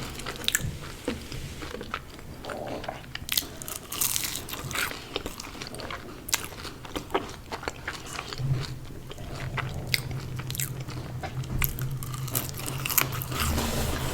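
Biting and chewing of crunchy fast food, a run of sharp, irregular crunches.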